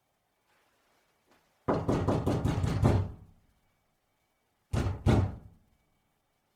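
Knuckles knocking on a door: a fast run of about eight knocks, then after a pause two more.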